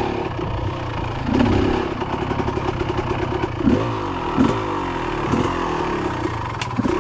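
Dirt bike engine running on a trail under changing throttle, its revs rising and falling sharply several times in the middle.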